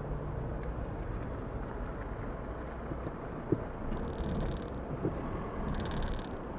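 Seat Leon 1P 1.9 TDI four-cylinder turbodiesel running at low revs, a steady low hum heard from inside the cabin, with a few small clicks.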